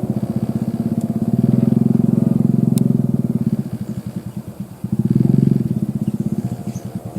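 A small engine running with a fast, even pulsing beat. It grows louder about a second and a half in and again around five seconds in.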